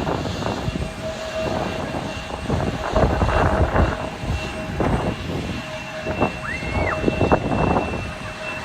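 Jet airliner engines running, with a steady whine over a rumbling noise that swells and fades several times.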